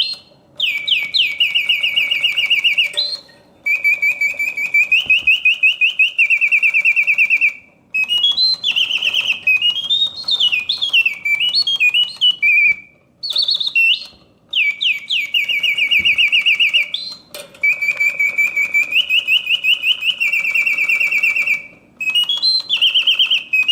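Reuge double singing bird cage automaton singing: bellows-driven whistle warbling in fast trills and sliding, rising and falling notes, in phrases of a few seconds broken by brief pauses. A faint steady hum of the clockwork mechanism runs beneath it.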